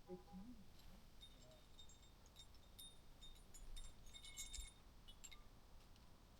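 Faint light metallic clinking and jingling of climbing hardware, carabiners and nuts knocking together on a rack, in a scatter of small clinks with short ringing.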